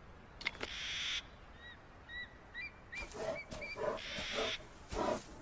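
Wildlife sounds: a bird's short high chirps, then a series of low repeated animal calls from about three seconds in. Two bursts of high hiss stand out, one near the start and one near the end.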